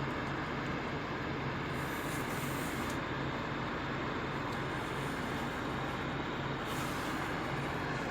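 Truck engine running steadily with a low, even hum, and two brief hisses, about two seconds in and near the end.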